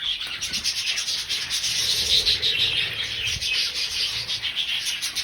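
A large flock of budgerigars chattering together, a dense continuous mass of rapid scratchy chirps and warbles.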